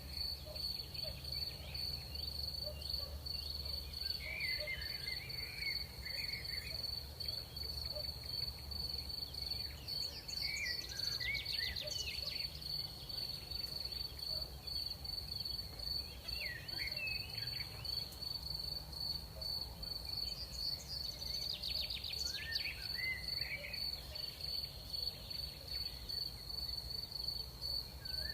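Crickets trilling in one steady, high, unbroken note, with short chirping calls from other night creatures breaking in every few seconds and two brief bursts of rapid ticking. A low rumble sits underneath.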